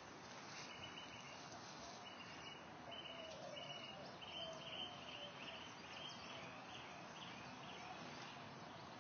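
Faint outdoor ambience with a bird chirping over and over, each chirp short and buzzy and high-pitched, growing fainter near the end.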